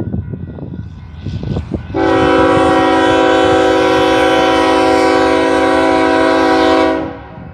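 Freight locomotive's air horn sounding one long blast of about five seconds, a steady chord of several pitches, starting suddenly about two seconds in and cutting off near the end. Before it, the low rumble of the passing train.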